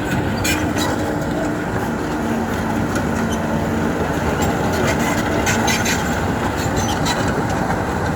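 Excavator working, its diesel engine and hydraulics running with a steady whine, with frequent metallic clanks and clicks scattered over the drone.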